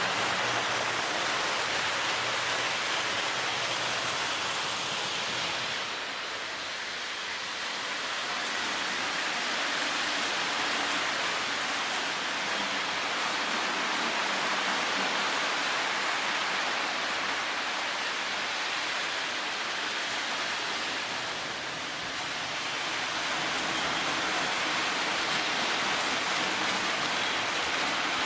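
Lionel O gauge MPC-era D&H U36c diesel locomotives running on the track: a steady rushing rumble of motor and wheels that fades a little twice, about 15 seconds apart.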